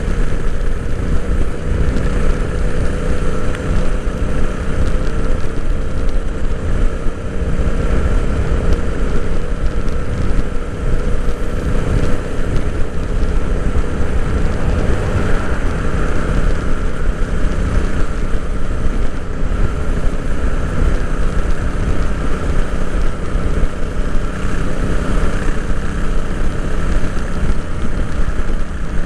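Royal Enfield Interceptor 650's 648 cc parallel-twin engine running steadily under way, heard from on board the motorcycle.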